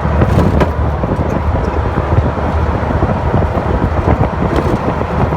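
Moving truck heard from its open back: a steady low rumble of engine and road noise under rushing wind.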